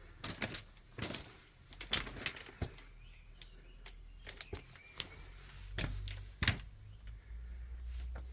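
Irregular clicks and knocks, a few of them sharp, with a low rumble coming in a little past halfway.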